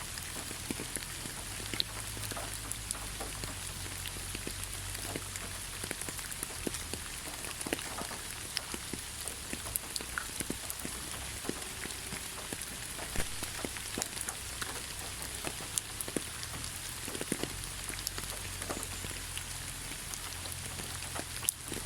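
Steady rain falling on leaves: a constant hiss with many separate drops tapping, irregular and close together.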